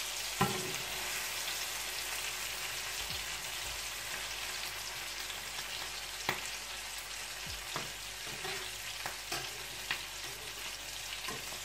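Eggplant omelette with minced meat frying in oil in a nonstick pan, a steady sizzle. A wooden spatula and a fork click against the pan a few times.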